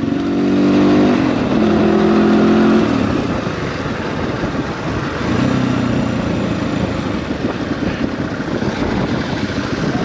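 Dirt bike engine under way while riding, its note climbing and dropping a few times as the throttle is worked, over a steady rushing noise.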